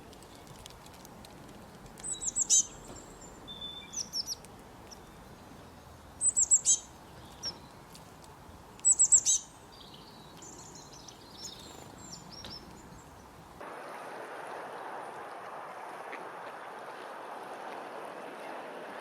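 Birds calling in groups of short, high chirps and quick falling notes, the loudest a few seconds in and again around nine seconds in, over a faint steady hiss. About fourteen seconds in, the background switches abruptly to a louder, steady rushing noise.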